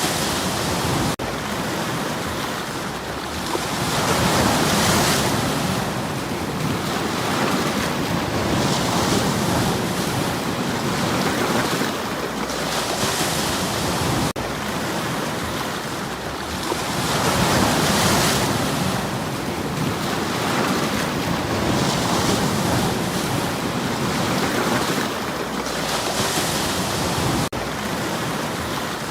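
Sea waves washing in against stones on the shore: a continuous rush of surf that swells and falls back about every four to five seconds.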